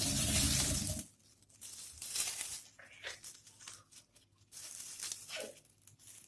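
Kitchen handling sounds: a short stretch of steady rushing noise that cuts off about a second in, then intermittent tearing and crinkling of paper or plastic.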